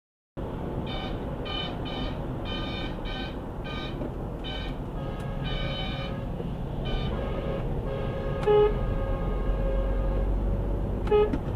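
Car horns tooting in a quick irregular series of short beeps over steady road and engine noise. A louder single honk comes about two-thirds of the way through, and another short one near the end.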